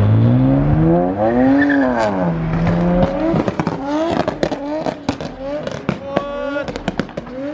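A car engine revving hard as the car pulls away, its pitch climbing for about a second and a half, then dropping back and holding. From about three seconds in comes a rapid, irregular run of sharp pops and crackles.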